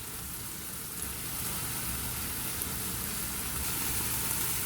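Chicken, spring onion and sliced carrot stir-frying in hot oil in a pan: a steady sizzle.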